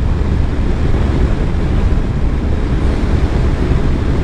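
Steady wind rush on a helmet-mounted camera over the low rumble of a Yamaha FJR touring motorcycle riding at highway speed.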